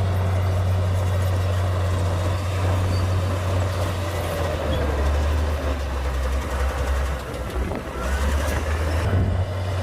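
Komatsu D58P crawler bulldozer's diesel engine running with a deep steady drone. The drone drops lower for a few seconds midway, then comes back up near the end.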